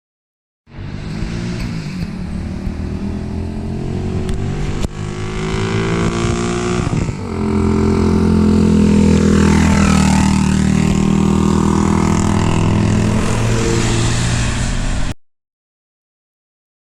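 Ice Bear Champion CT70-clone pit bike with its single-cylinder four-stroke engine and aftermarket Trail Buddy Thumper exhaust, accelerating under throttle and riding past. The engine note climbs in pitch over the first several seconds and is loudest in the middle of the pass, then cuts off suddenly near the end.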